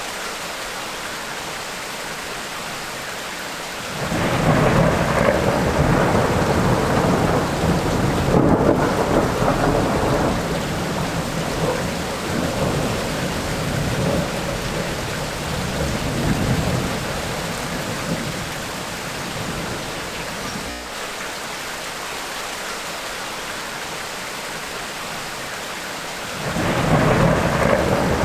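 Tropical rainstorm: steady rain with a long thunder rumble that rolls in about four seconds in and dies away over some fifteen seconds, then a second roll of thunder beginning near the end.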